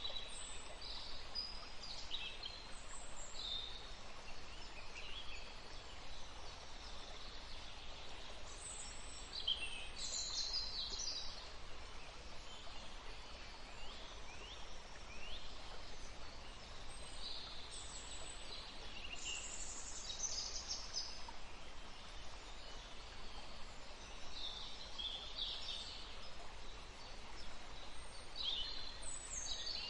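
A woodland stream running steadily, with songbirds chirping and calling on and off over it.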